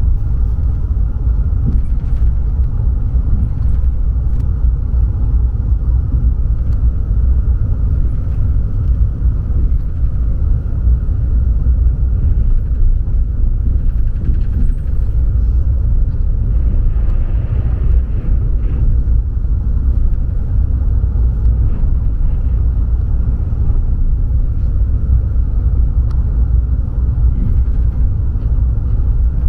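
Steady low rumble of a Renfe Avant high-speed train running, heard from inside the carriage.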